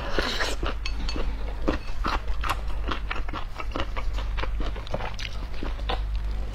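Close-miked chewing of crunchy pickled vegetables: many short wet crunches and mouth clicks, several a second. Near the end she bites into a large soft steamed bun.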